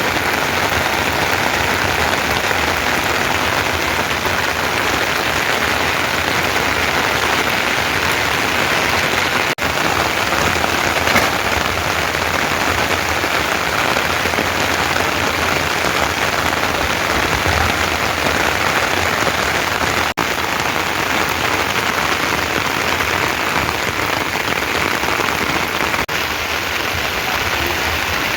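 Steady heavy rain falling, an even hiss of rainfall on surfaces that hardly changes, dropping out for an instant twice.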